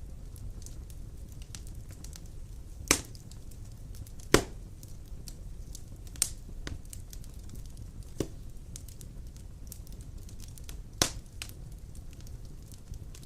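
Large wood logs burning in a fireplace: a steady low rumble of flame with constant small crackles, and about five sharp pops from the burning wood, the loudest about four seconds in.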